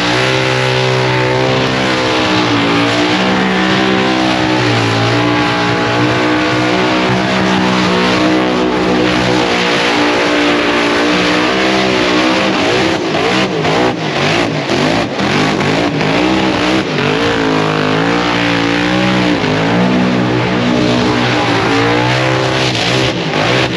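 A car engine revving hard, its pitch rising and falling again and again over a steady hiss of tyre noise, as in a burnout.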